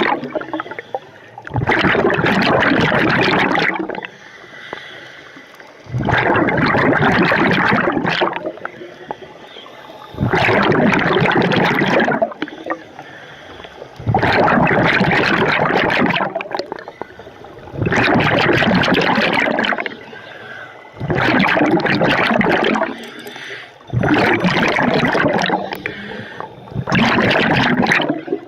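Scuba diver breathing through a regulator underwater: a loud rush of exhaled bubbles about every three to four seconds, with a quieter hissing inhale between them.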